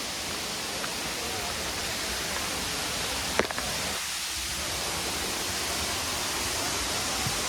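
Steady rushing of a waterfall dropping in steps over rock, heard as an even wash of noise, with one sharp click about three and a half seconds in.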